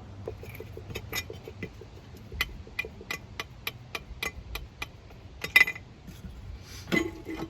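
Air cleaner being opened on a 1973 Chevy K20's 350 V8: a run of small, evenly spaced metallic clicks, about three or four a second, then a louder metal clank about five and a half seconds in and a knock near the end as the lid comes off.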